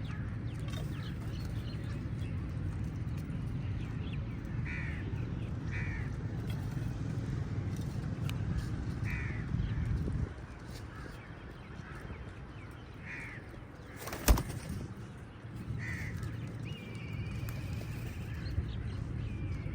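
Crows cawing, single short calls every one to few seconds, with a longer wavering call near the end. A low rumble runs under the first half and stops about halfway, and a single sharp click comes about two-thirds through.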